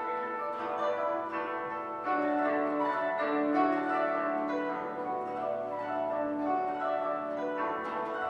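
Koto music: a duo of kotos playing a flowing passage of plucked notes that ring on, with a lower note held from about two seconds in.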